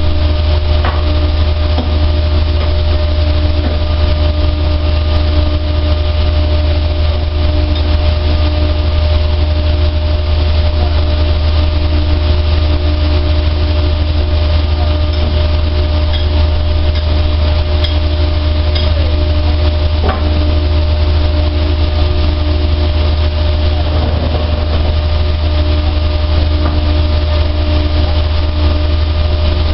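Dryer machine running steadily: a constant low hum with a few faint steady tones above it.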